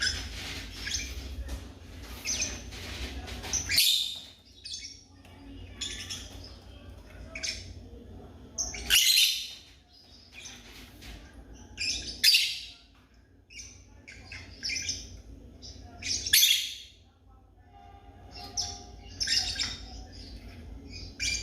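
African lovebirds chirping: a run of shrill, high chirps with a louder burst every few seconds.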